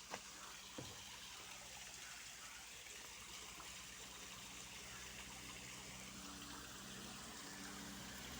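Water running and trickling steadily at a low level, with two faint clicks in the first second.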